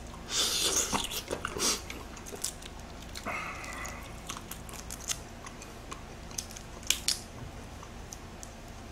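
Close-miked chewing and crunching of boiled shrimp, loudest in the first two seconds, then the crackle and rustle of shrimp shells being peeled by hand, with a few sharp clicks.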